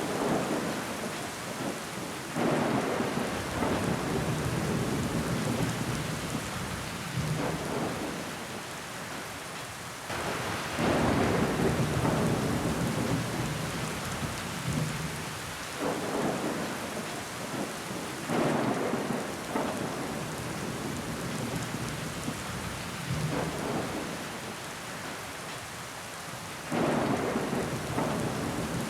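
Heavy rain falling steadily against window glass, with water running down it. Every few seconds the sound swells suddenly louder for a few seconds.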